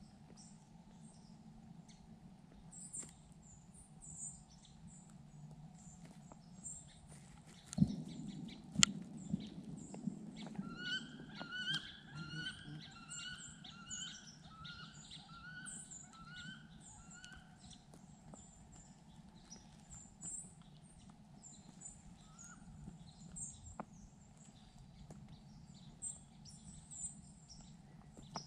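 Wild birds calling in bare winter woods. Scattered high chirps run throughout, and about ten seconds in one bird sings a quick run of about a dozen evenly repeated notes lasting several seconds. A couple of sharp knocks come shortly before the song, over a faint steady low hum.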